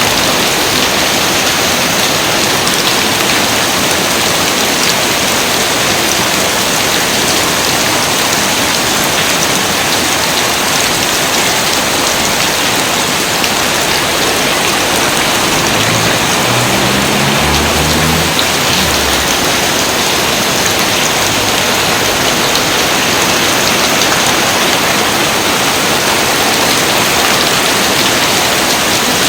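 Steady rain falling: an even, dense hiss that holds constant, with a faint low hum rising in steps about halfway through.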